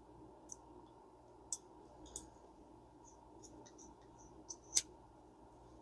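A few faint, irregular light clicks and ticks from a partly reassembled Garcia Mitchell 410 spinning reel being handled and turned over to check its working, the sharpest click near the end.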